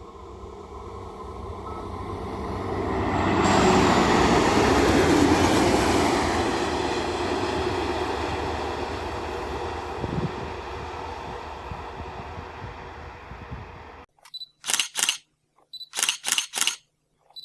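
A train passing: rail noise grows louder for about four seconds, then fades slowly over the next ten. About fourteen seconds in it cuts off and music with a steady beat starts.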